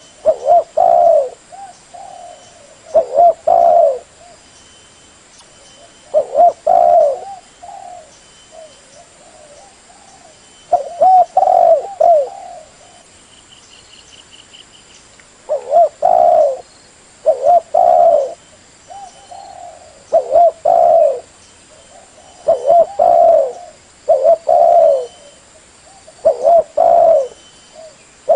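Spotted dove cooing over and over, in phrases of two or three low notes that come every few seconds.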